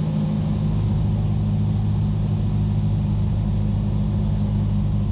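Cessna 172's piston engine and propeller droning steadily at reduced power while the plane descends on final approach, heard from inside the cabin.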